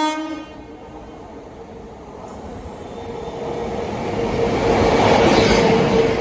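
Express train hauled by a WAP-7 electric locomotive approaching and passing, its rolling and rail noise building to its loudest about five seconds in. The tail of a horn blast cuts off at the very start.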